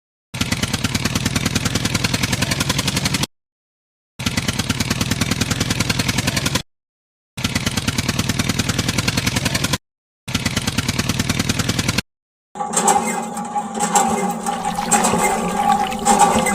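A rapid, evenly pulsing engine-like sound effect, played in four bursts of two to three seconds each and cut off abruptly into dead silence between them; about twelve and a half seconds in, a different, noisier sound with a few steady tones starts.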